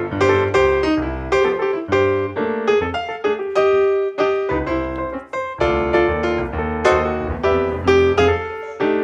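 Background piano music, a steady run of notes at a moderate pace.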